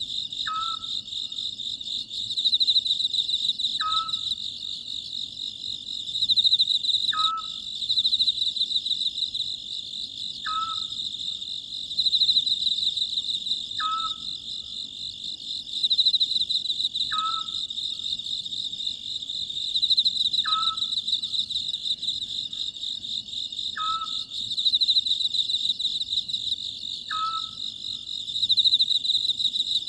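Oriental scops owl giving its short two-note call about every three seconds, nine times, over a steady, pulsing chorus of chirping insects.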